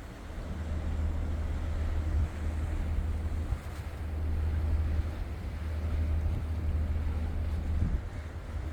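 Wind buffeting the microphone on the deck of a cruise ship under way, over a steady low rumble.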